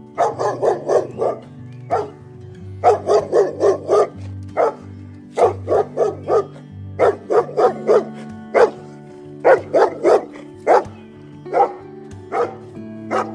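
A dog barking over and over, in quick runs of four to seven barks with single barks in between, over background music with steady held notes.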